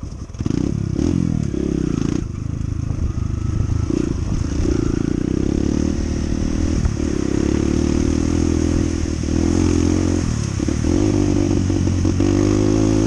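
Honda CT125's single-cylinder engine running while riding, its note rising and falling with throttle and briefly dropping several times, as at gear changes.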